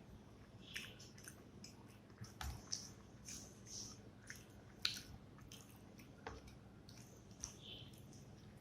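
Close-miked eating sounds of a person chewing rice and fish curry: a string of short wet mouth smacks and clicks, the sharpest about five seconds in.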